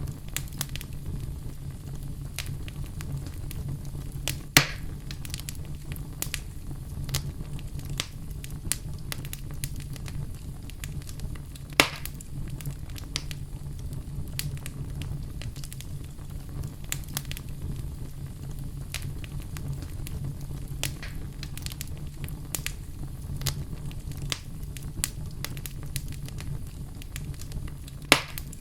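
Fire burning in a fireplace, with a steady low rumble under constant small crackles. Three louder pops stand out: about five seconds in, about twelve seconds in, and near the end.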